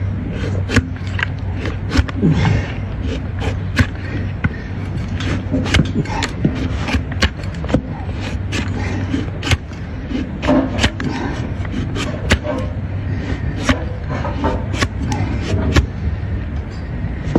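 Hoof knife scraping and cutting the horn of a donkey's overgrown, curling front hoof, in irregular sharp clicks and scrapes over a steady low hum.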